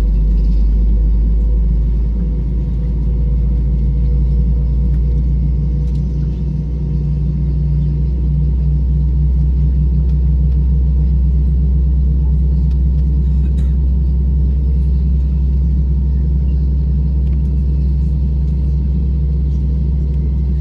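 Airbus A321 cabin noise on the ground: a steady low rumble with a constant hum.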